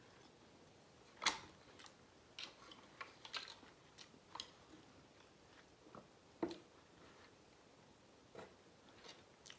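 A person chewing food with the mouth closed: soft, irregular wet mouth clicks and smacks, the sharpest about a second in.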